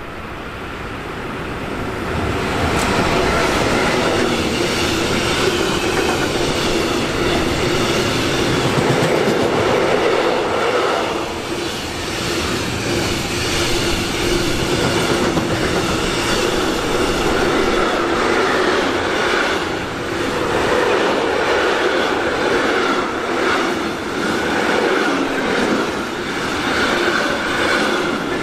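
A train passing close by on the tracks. Its sound builds over the first few seconds and then stays loud, a dense rumble with steady whining tones running through it.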